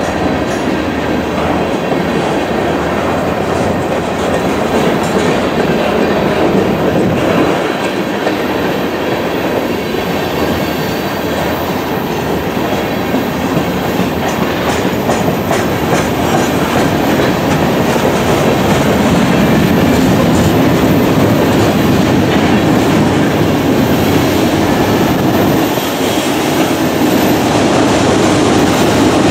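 Freight train cars (covered hoppers, tank cars and boxcars) rolling past close by: a steady, loud rumble of steel wheels on the rails with repeated clicks from the wheels, growing a little louder in the second half.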